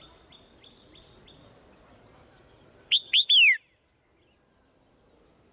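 Swallow calling: a faint run of quick down-slurred notes, about three a second, at the start. About three seconds in come three loud, sharp down-slurred whistles in quick succession, which cut off abruptly.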